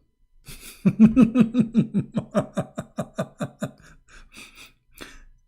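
A man laughing: a long run of rapid "ha" pulses, about five a second, that grows fainter, trailing off into a few breathy puffs near the end.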